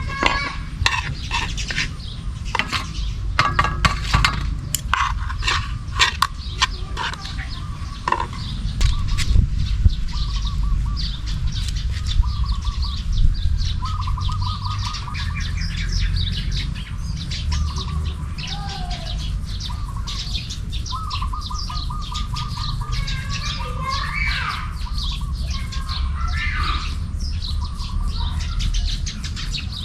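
Small birds chirping and trilling over and over, over a steady low rumble. A quick run of sharp clicks or knocks fills roughly the first ten seconds.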